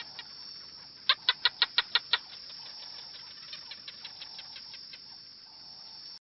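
A bird calling in a rapid run of short, sharp notes, about six a second, over a steady high hiss. The loudest burst is seven notes about a second in, with fainter notes repeating around it. The sound cuts off suddenly near the end.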